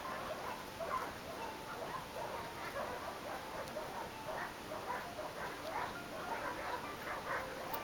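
Dogs barking: a steady, irregular run of short, overlapping barks.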